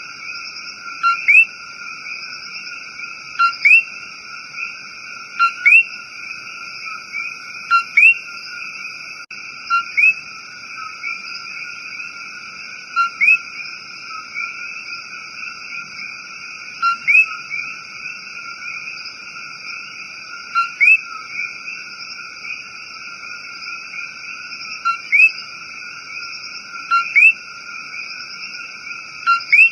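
Common coqui frogs calling in a dense chorus. Nearer males stand out every second or two with loud two-note 'co-qui' calls: a short low note, then a quickly rising one.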